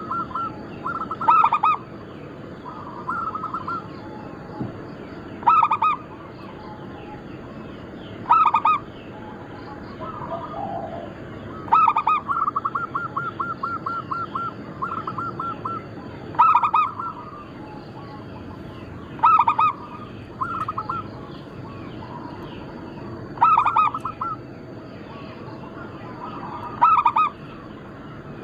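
Zebra doves (perkutut) cooing: short loud phrases repeat every few seconds, with runs of quick stuttering notes in between. A faint steady high whine runs underneath.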